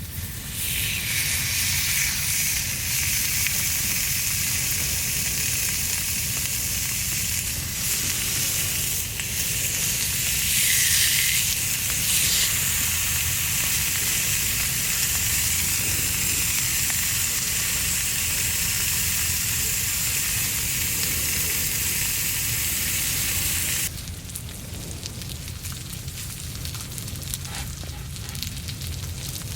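Food frying on a hot iron plate over a campfire: a dense, steady sizzle that stops suddenly about 24 seconds in, leaving a quieter sound of the fire.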